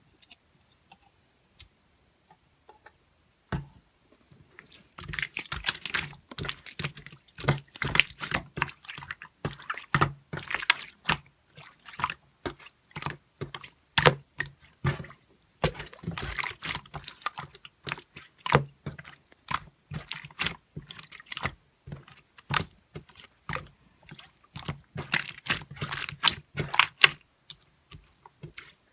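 A few isolated clicks, then from a few seconds in a fast, irregular run of sharp clicks and taps that keeps going, like typing.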